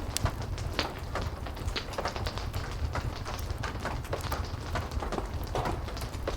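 Heavy rain falling steadily with a wood fire crackling: a constant low rumble under many irregular sharp pops and ticks.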